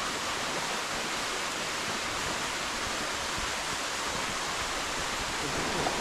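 Steady rush of a waterfall, a constant even roar of falling water.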